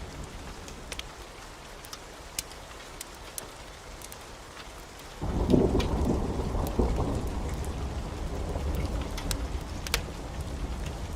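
Steady heavy rain with scattered sharp ticks. About five seconds in, a thunderclap breaks in abruptly and rumbles on, slowly fading.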